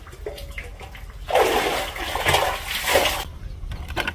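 Water rushing and splashing in a few surges, loudest about a second and a half in, then stopping about three seconds in.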